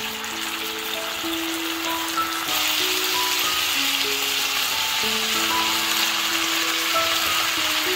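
Chicken breast pieces sizzling as they fry in oil in a pan, the sizzle getting louder about two and a half seconds in. Soft background music with a simple melody plays along.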